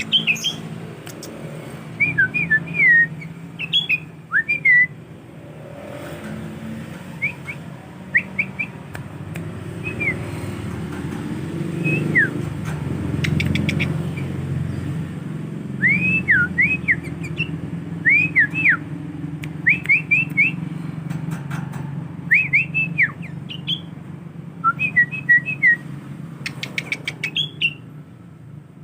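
Young male sooty-headed bulbul singing short bursts of quick, clear whistled notes that slide up and down, phrase after phrase with brief gaps, as it learns imitated song phrases. A steady low rumble runs underneath, with a few sharp clicks near the start and end.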